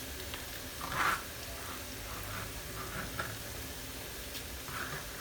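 Prawns and spring onions frying gently in a stir-fry pan: a low steady sizzle, with a few brief soft stirring sounds about a second in and again later.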